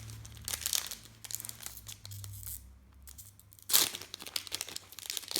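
A trading-card pack wrapper being torn open and crinkled, in a run of scratchy rustles with one sharp, loud tear about two-thirds of the way through.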